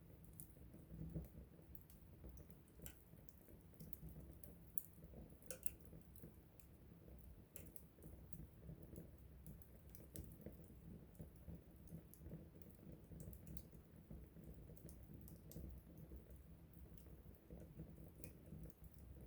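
Wood fire crackling faintly: irregular small snaps and pops of burning wood over a low, steady rumble of the flames.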